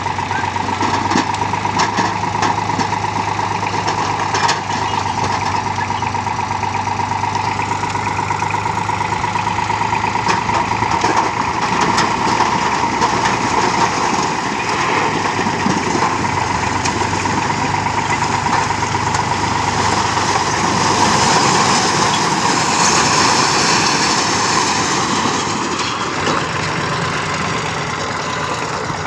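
Eicher 485 tractor's diesel engine running steadily and loudly as the tractor works stuck in mud, growing a little louder about twenty seconds in.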